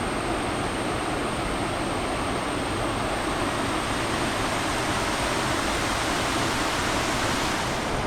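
Waterfall rushing steadily, an unbroken noise of falling water with a deep low rumble.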